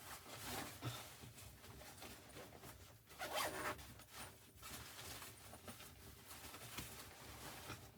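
Close fabric rustling and scraping handling noises in short, rough strokes, the loudest a little over three seconds in.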